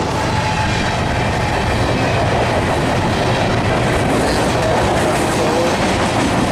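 Freight cars of a CSX mixed freight train rolling past at close range: a steady, loud noise of steel wheels running on the rails.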